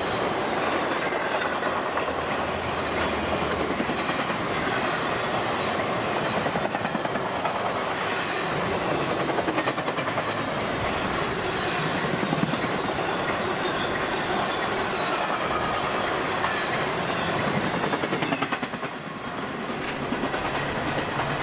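Freight train's intermodal cars rolling past at track speed, wheels clicking steadily over the rail joints in a continuous clickety-clack. The level dips briefly near the end.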